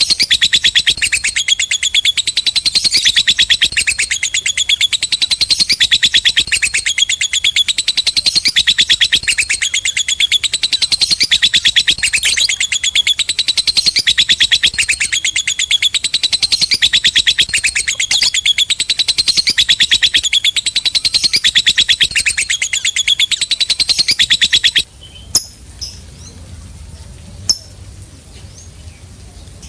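Lovebird giving its long 'ngekek' chatter: a fast, unbroken run of shrill repeated notes that stops suddenly about 25 seconds in, followed by a few faint short chirps.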